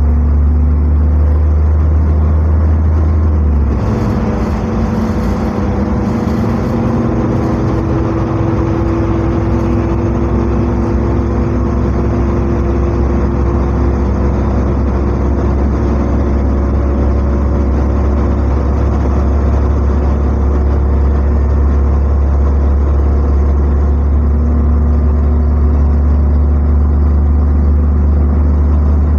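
NefAZ-5299 city bus heard from inside during a ride: the engine makes a steady low hum. About four seconds in it gives way to louder drive and road noise with a faint whine that slowly rises in pitch, and the low hum comes back in the second half.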